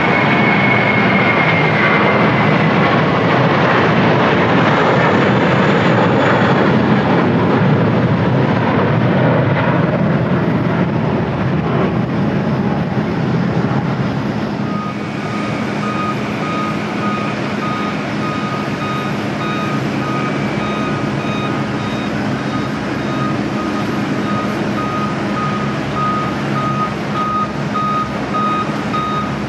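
Jet airliner engines roaring, their whine falling in pitch as the aircraft passes, then easing off. About halfway in, a vehicle's reversing beeper starts beeping at an even rate over a low engine hum.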